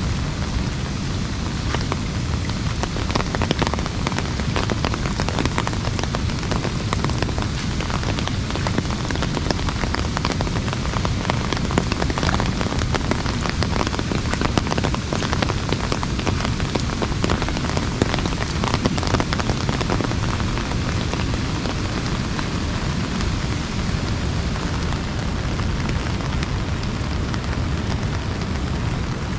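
Steady rain drumming on an umbrella, a dense patter of countless drops, over a constant low rumble.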